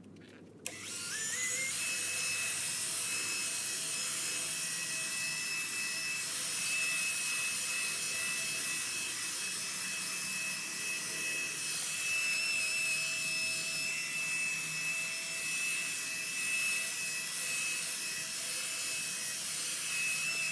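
Electric drill spinning a polishing pad against a plastic headlight lens, buffing it with polishing compound. The drill starts about a second in with a whine that rises as it spins up, then runs steadily with a rubbing hiss.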